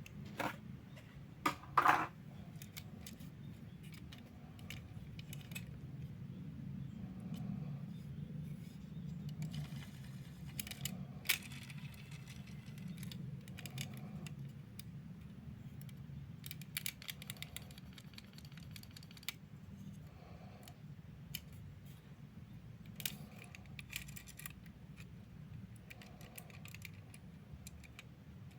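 Small hard objects being handled: scattered sharp clicks and short bursts of light rattling, the loudest clicks about two seconds in, over a steady low hum.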